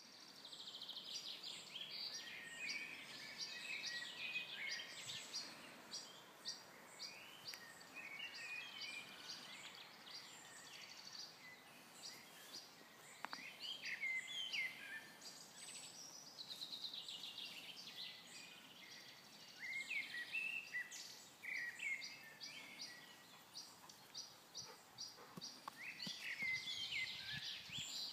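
Songbirds singing: a mix of short chirps, whistled notes and rapid trills from several birds.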